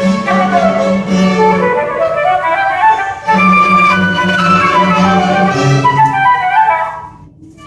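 A student orchestra playing, with several melodic lines moving over a held low note. The playing breaks off briefly about three seconds in and fades out shortly before the end.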